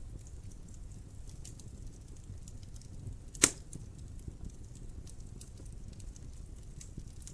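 Wood fire crackling in a fireplace: scattered small ticks over a low steady rumble, with one loud sharp pop about three and a half seconds in.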